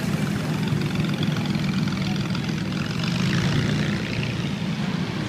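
Car engines idling and creeping along in slow traffic close by: a steady low rumble.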